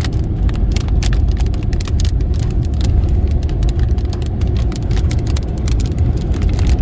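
Heavy rain hitting a car, scattered drops striking as sharp clicks over the steady low rumble of the car on the move.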